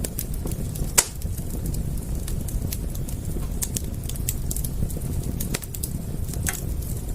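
Wood fire crackling: irregular sharp pops and snaps over a steady low rumble, with one loud pop about a second in.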